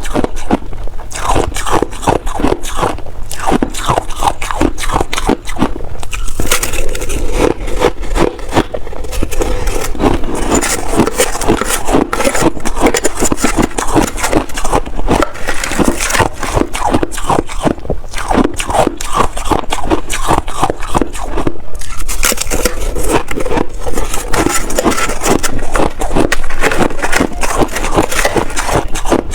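Shaved ice being eaten in big spoonfuls and chewed close to the microphone: a dense, unbroken run of crunches and crackles.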